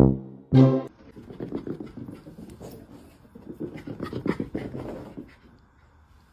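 A short, loud horn-like note, then a dog panting for about four seconds before it stops.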